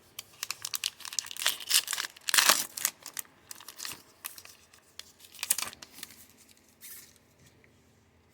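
A baseball card pack wrapper being torn open and crinkled by hand, an irregular run of tearing and crackling that is loudest a couple of seconds in and dies away near the end.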